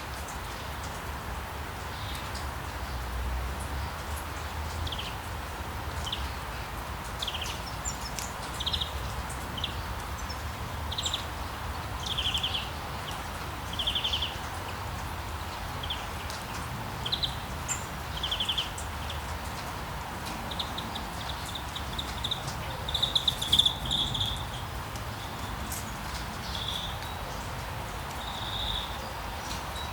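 Steady rain hiss with birds chirping over it in short high notes every second or two, thickening into a louder run of chirps a little over two-thirds of the way through.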